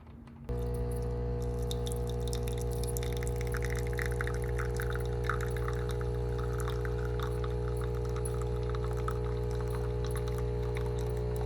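Capsule coffee machine's vibratory pump humming steadily as it brews, with coffee streaming and spattering into the cup. The hum starts abruptly about half a second in.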